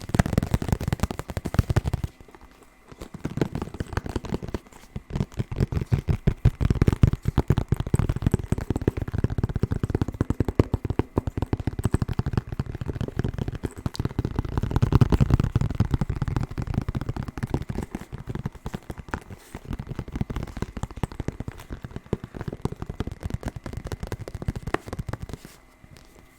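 Fast fingernail tapping and scratching on a hard object held close to the microphone: a dense, continuous run of quick clicks with a brief pause about two seconds in, thinning out near the end.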